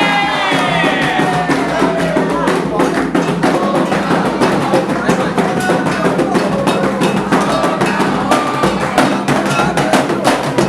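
Candomblé ritual music: dense, fast hand-drumming with voices singing a chant, the singing strongest in the first second or so.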